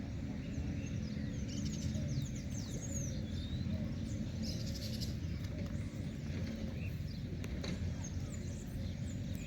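Birds chirping and calling in short, quick sweeps over a steady low rumble.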